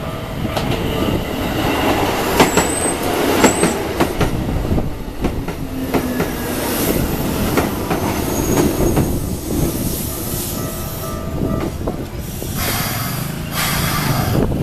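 Keikyu 1500 series electric commuter train passing close by: a steady running rumble with wheels clicking over rail joints. Brief high wheel squeals come a few times in the first half.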